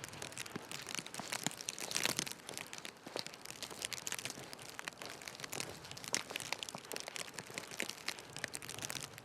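Footsteps crunching in snow, a steady series of crisp crackling crunches.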